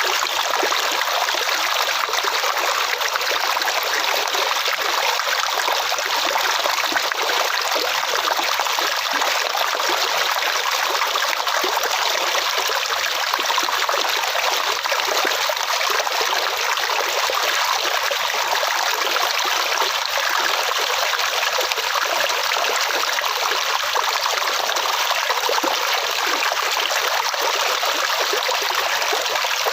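Flowing water: a stream running over stones with a steady, unbroken rush and trickle.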